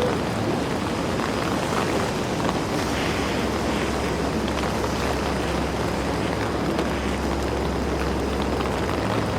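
Steady city street noise in the rain: a continuous low traffic rumble under an even hiss of rain and wet street sound.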